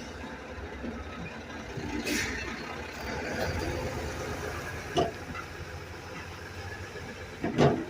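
A truck's engine idling with a steady low rumble, with a short hiss about two seconds in and a sharp click about five seconds in.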